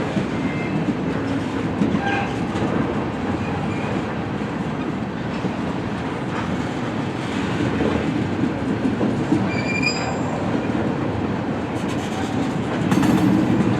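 Train cars rolling past on the rails in a steady rumble with clickety-clack over the rail joints. Brief high wheel squeals come about two seconds in and again around ten seconds in.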